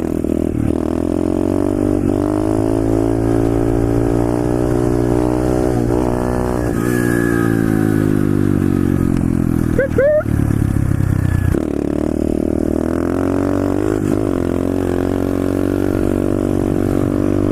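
125cc SSR pit bike's single-cylinder four-stroke engine running while being ridden, its pitch rising and falling with the throttle. There is a brief break in the engine note about ten seconds in.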